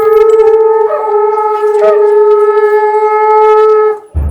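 A horn blown in one long, steady, loud note that stops abruptly about four seconds in.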